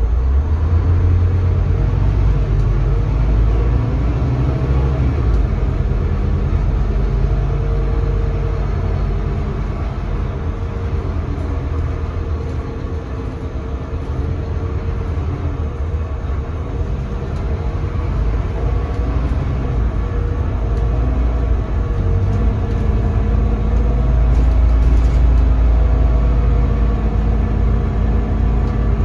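Scania K320CB city bus on the move, its DC9 five-cylinder diesel and ZF automatic heard from on board. The engine note rises and falls with speed and gear changes, easing off about halfway through and pulling harder again in the last few seconds.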